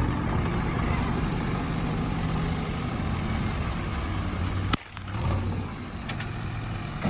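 Diesel engine of heavy farm or construction machinery running steadily, with a sharp click and a sudden brief drop nearly five seconds in.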